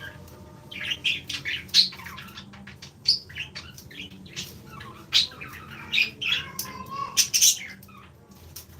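Small pet parrots squawking and chirping: many short, shrill calls in quick succession.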